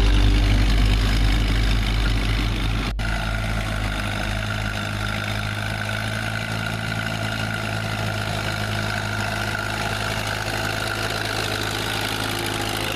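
An engine idling steadily, louder over the first seconds, with an abrupt break about three seconds in, after which it runs on evenly.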